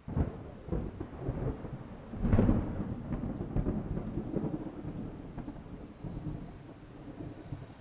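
Thunder rumbling in irregular rolls, swelling to its loudest about two seconds in and then slowly dying away.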